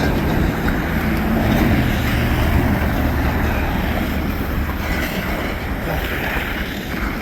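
Motor vehicle traffic: a steady low engine rumble with road noise, holding level throughout.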